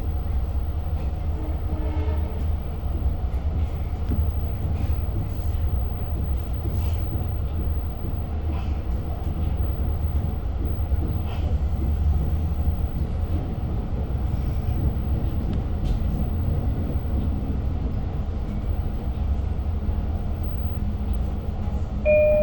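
Steady low rumble of a diesel-hauled Long Island Rail Road train running between stations, heard from inside a passenger car, with scattered faint clicks. Near the end a brief electronic chime sounds, the onboard signal that an automated announcement is about to play.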